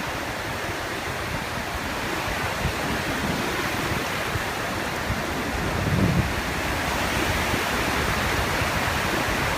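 Stormy sea: a steady rush of breaking waves and churning water mixed with wind, with a heavier low surge about six seconds in.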